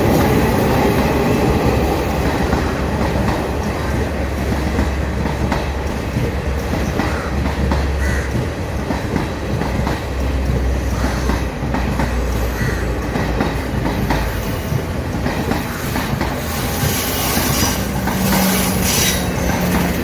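Diesel passenger trains running past on curved track: a steady low rumble with wheels clattering over the rail joints. Wheels squeal on the curve in the last few seconds.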